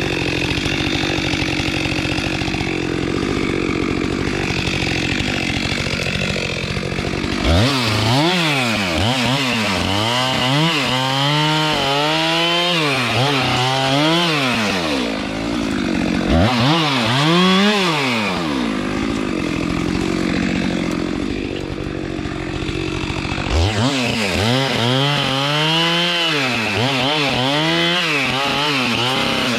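Chainsaw engine running hard, its pitch swinging up and down again and again in three long stretches, with steadier running between them.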